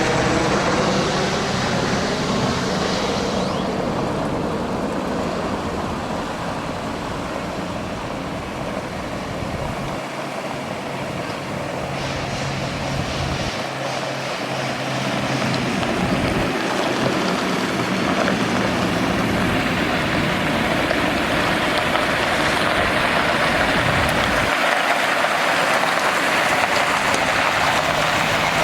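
Freightliner M2 water truck's Cummins ISC inline-six diesel engine running, with a steady rushing hiss over it that grows louder about two-thirds of the way through.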